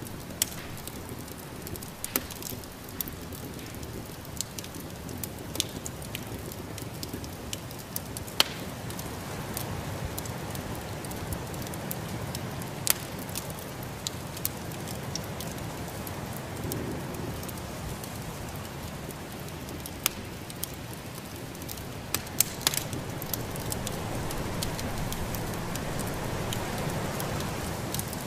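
Wood fire crackling in a fireplace, with irregular sharp pops and snaps over a steady low rushing.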